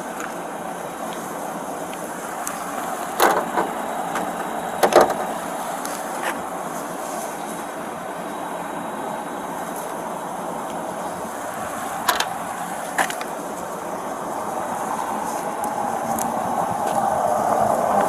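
Steady outdoor background noise with a handful of sharp knocks or clicks, about three, five, twelve and thirteen seconds in.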